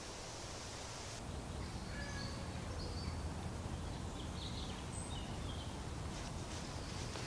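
Outdoor ambience: small birds chirping in short, scattered calls over a low steady rumble, starting about a second in after a plain hiss.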